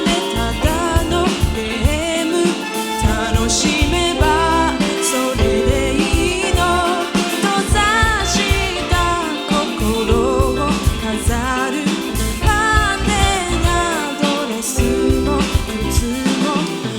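A live band playing a song, with a lead voice singing the melody over bass and drums.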